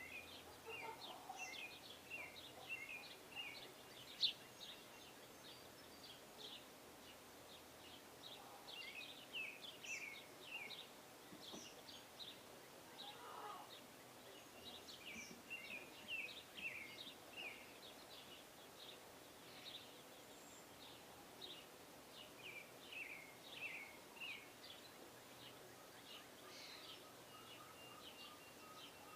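Small birds chirping and calling, with many short high notes, several sliding down in pitch, following one another in quick irregular succession.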